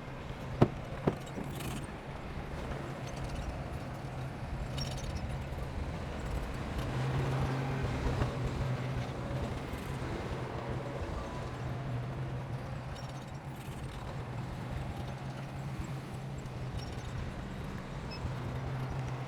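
A heavy earthmoving machine's engine running steadily, with a slight swell in the middle. Two sharp knocks about half a second apart come near the start.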